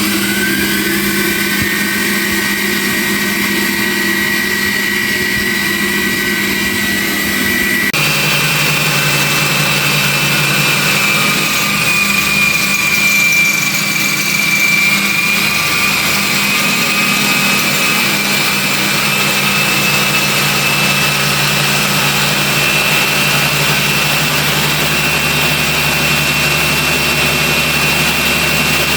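Mini lathe running under its electric motor: a steady whine over a low hum, rising in pitch as it spins up at the start. About eight seconds in it changes abruptly to a higher whine that then holds steady.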